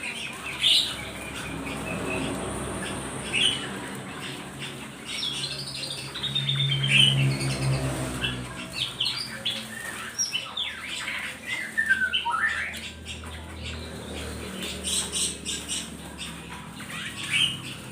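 A group of small songbirds chirping and squawking together in short, overlapping calls and quick falling notes. A low hum swells about six to eight seconds in.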